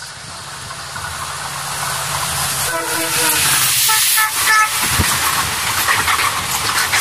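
Indian Railways express train approaching at speed: the locomotive sounds two short horn blasts about three and four seconds in, the second higher in pitch. Its passenger coaches then rush past close by with loud rushing noise and clattering of wheels over the rail joints.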